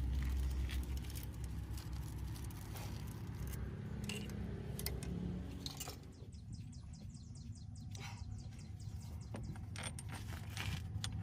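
Metal tools clinking and scraping during hand work on a truck, over a steady low hum, with a run of quick, even ticks a little past the middle.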